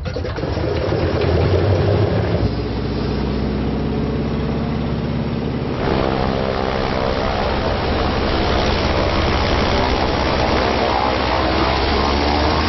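Propeller biplane's piston engine running steadily with an even drone. The sound shifts about two seconds in and again around six seconds in.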